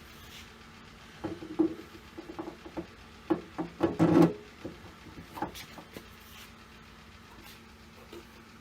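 A quick run of light knocks, clicks and rattles of hand-handled parts and hardware, densest and loudest about four seconds in, then a few scattered taps.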